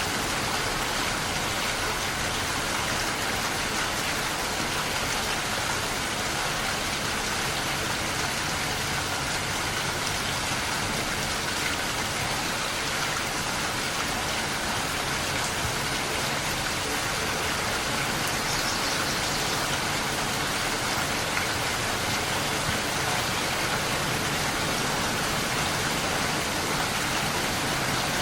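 Steady rainfall, an even, unbroken hiss of rain falling on surfaces.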